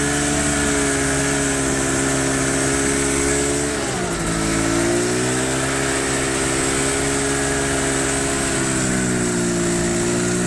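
Vehicle engine running while driving; its pitch drops about four seconds in, then rises again and holds steady.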